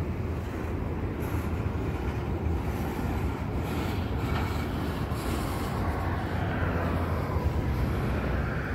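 Double-stack intermodal container train's well cars rolling past, a steady rumble of steel wheels on rail.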